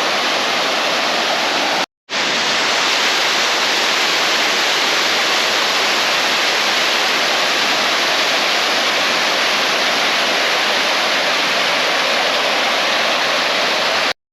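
Loud, steady rush of water falling below a dam into the river, cutting out briefly about two seconds in.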